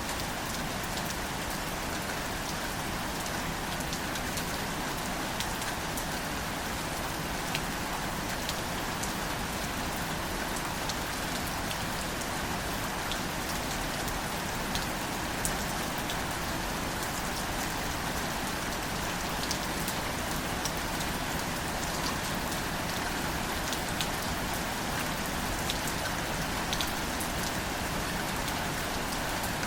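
Steady, gentle rain falling on wildflowers and foliage, an even hiss with many small separate drop ticks scattered through it.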